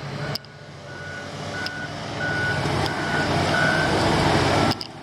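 Reversing alarm of a heavy construction vehicle beeping at one steady pitch, about twice a second, over its diesel engine, which grows louder and then drops sharply near the end.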